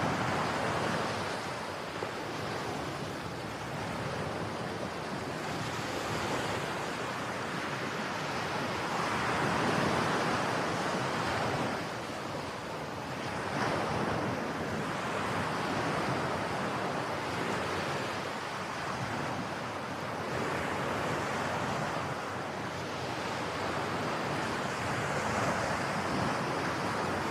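Sea waves breaking and washing on the shore, the surf swelling and easing every few seconds, with some wind on the microphone.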